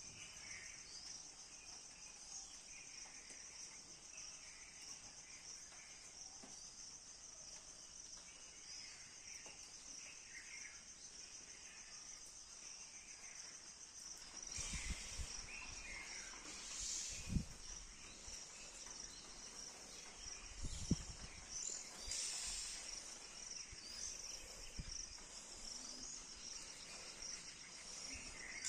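A steady, high-pitched chorus of insects trilling, with scattered faint bird chirps. About halfway through a rustling noise comes in, with two sharp thumps.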